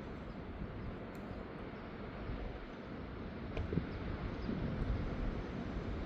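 Steady outdoor background noise, mostly a low rumble that rises and falls without any rhythm.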